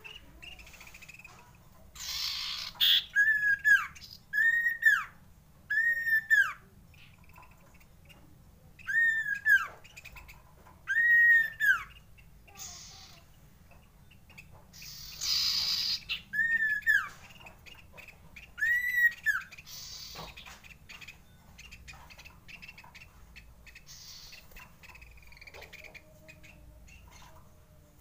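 Common iora (cipoh) calling: a string of clear whistled notes, each rising then falling, singly and in pairs a second or two apart, with a few short noisy bursts between them.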